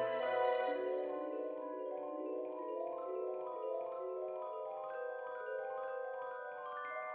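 Background music: a gentle melody played on mallet instruments like vibraphone or glockenspiel, notes overlapping and ringing on.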